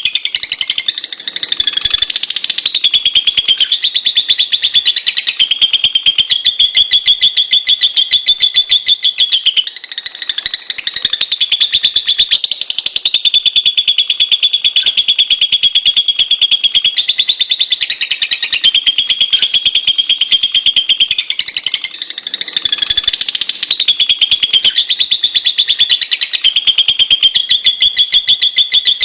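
Lovebird singing a long, unbroken, shrill chattering trill of very rapid notes, wavering slightly up and down in pitch.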